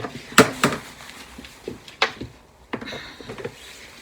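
A few sharp knocks and clunks, four in all, from the small plastic portable washing machine being handled and set down.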